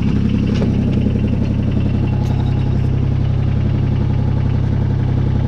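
Kubota BX22 compact tractor's three-cylinder diesel engine running steadily at idle.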